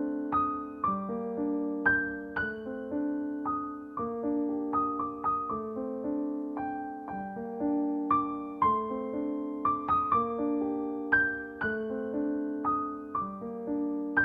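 Background music: a gentle solo piano piece with chords held low and single melody notes struck above them, each note fading after it is played.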